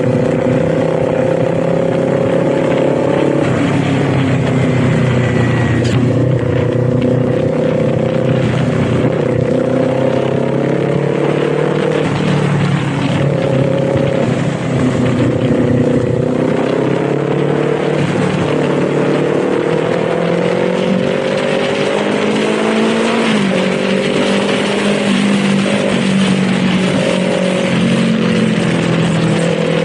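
Kawasaki Z400's 399 cc parallel-twin engine running under way, its note climbing slowly and then dropping several times as the revs rise and fall, over a steady rush of wind noise.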